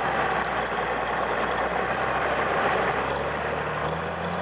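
International 660 tractor engine running steadily, with a deeper engine note coming in about three seconds in.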